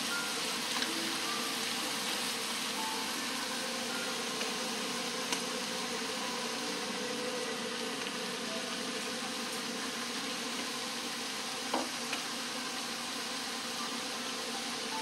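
Shredded bellflower root (doraji) sizzling as it stir-fries in a nonstick wok: a steady frying hiss, with a couple of light knocks from the spatula.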